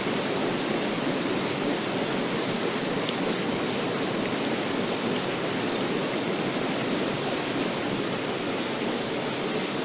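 Industrial air-bubble washing machine running: a steady noise of water agitated by air bubbles in its tank.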